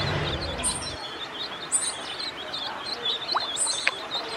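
A group of ducklings peeping, many short high chirps overlapping in quick succession. A low rumble underneath stops about a second in.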